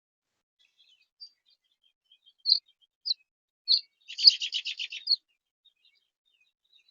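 A songbird calling: three short, high chirps, then a quick trill of about nine notes and one last chirp.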